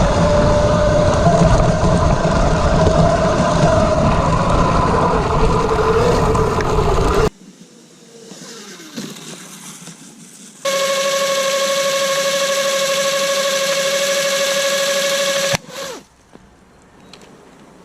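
QS90 mid-drive electric motor on a 72 V mini bike, whining over a loud rushing noise for about seven seconds. After a quieter gap it runs a steady, high whine for about five seconds that cuts off abruptly.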